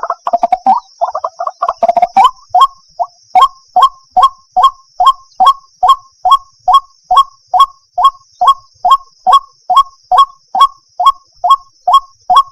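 White-breasted waterhen calling: a fast run of notes for about the first two seconds, then a steady series of single loud notes, about two or three a second, stopping near the end.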